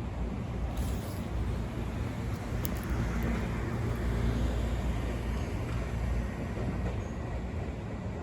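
Tobu 10000 series electric train running slowly on a depot test run: a steady low rumble, with a few sharp clicks about one and three seconds in.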